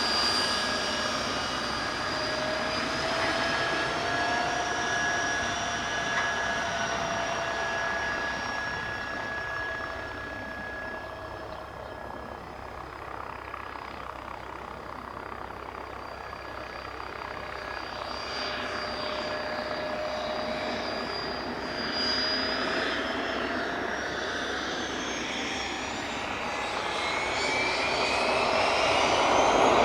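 Learjet 45's twin Honeywell TFE731 turbofans whining at low power, several steady tones drifting slightly. In the last several seconds the whine rises in pitch and grows louder as the engines spool up for the takeoff roll.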